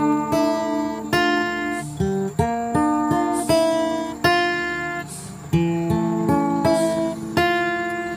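Acoustic guitar music: plucked and strummed notes and chords that start sharply and die away, one after another.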